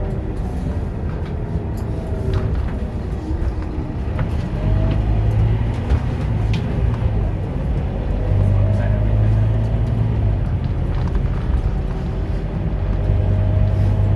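Scania K230UB bus's diesel engine running, its low note swelling and easing several times as the bus changes speed, with a faint whine gliding up and down in pitch above it.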